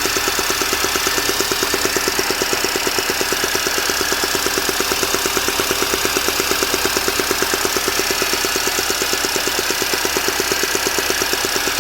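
Mini Cooper S R53's supercharged 1.6-litre four-cylinder idling, with an even, rhythmic popping from the top of the engine that is not metallic. The owner wonders whether it is the start of cam chain tensioner trouble.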